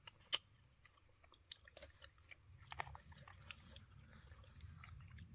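People chewing and biting food, with scattered faint crunchy clicks. A steady high-pitched hum runs underneath.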